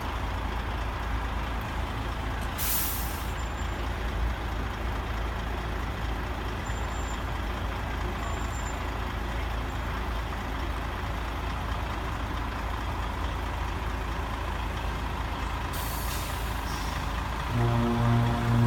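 Heavy trucks' diesel engines idling, with a short air-brake hiss about three seconds in and another near the end. A low, steady pitched tone, like a horn, sounds for about a second at the very end.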